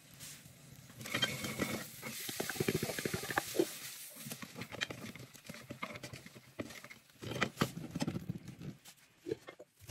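Meatball sauce boiling in a pot, bubbling with irregular pops and a faint hiss.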